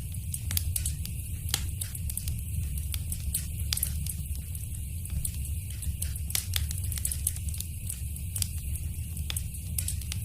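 Fire crackling in a fireplace: a steady low rumble with frequent, irregular sharp pops and snaps.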